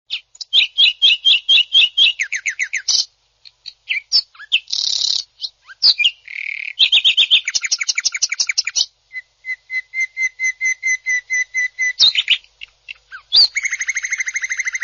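Greater green leafbird (cucak ijo) singing loud, rapid phrases of fast repeated notes and trills, about eight to ten notes a second, with short breaks between phrases.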